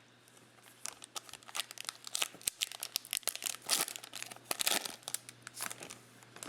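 A trading card pack's wrapper being torn open and crinkled by hand: a dense run of crackling that starts about a second in and stops shortly before the end.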